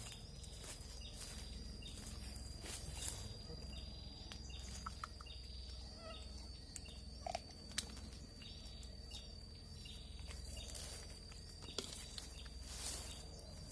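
Faint forest ambience: a steady high insect whine, with a short call repeating about every half second. Scattered rustling and a few sharp snaps, like steps through undergrowth.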